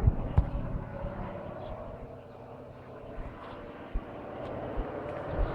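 Propeller engine of a crop-spraying plane droning overhead, easing off about halfway through and then growing louder toward the end as it comes closer. A few short low thumps are mixed in.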